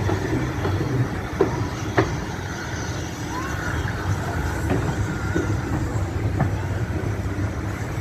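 Heritage railway train running along the line, heard as a steady low rumble with a few sharp clicks and some faint high squeals.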